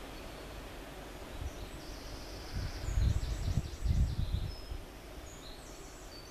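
Outdoor ambience: small birds chirping in quick, high, repeated trills, with a few low rumbles midway through.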